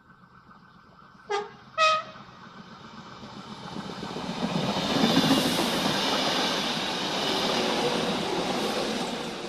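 Renfe train sounding two short horn blasts about a second in, the second louder, then approaching and passing with a rising rush of wheel and rail noise.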